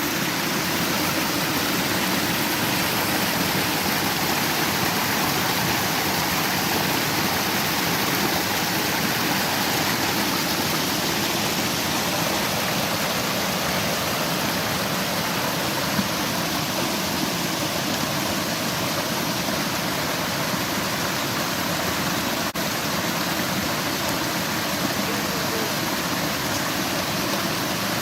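A forest stream running high and fast with spring snowmelt runoff: a loud, steady rush of water tumbling over the rocks in its bed.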